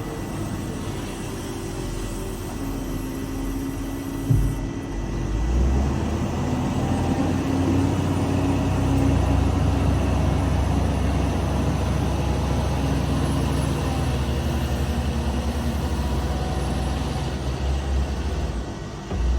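A large engine running steadily, with a sharp knock about four seconds in.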